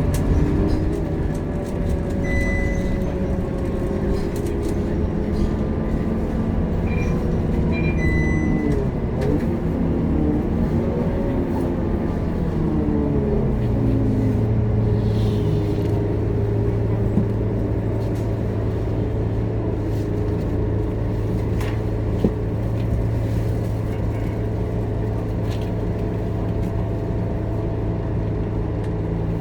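Scania K230UB city bus's diesel engine heard from inside the bus. Its pitch shifts up and down for the first dozen seconds, then settles into a steady low drone. Short high beeps sound about twice in the first eight seconds.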